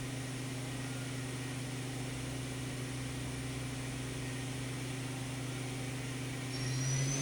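2007 Hyundai Kia VX750MH vertical machining center's 50-taper spindle running steadily at about 7500 RPM with an even hum. Near the end it speeds up toward 9000 RPM, getting louder and higher, with a faint rising whine.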